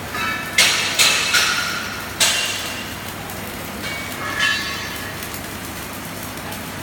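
Metal struck on metal: four sharp, ringing clanks in quick succession in the first two and a half seconds, then two fainter ringing knocks, over a steady workshop hum.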